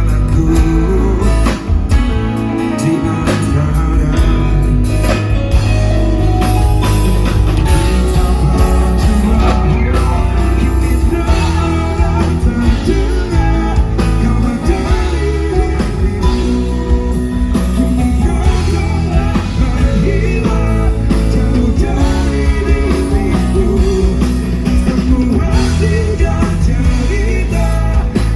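Band music with a singer, a rock-style song with a strong bass line and a steady beat.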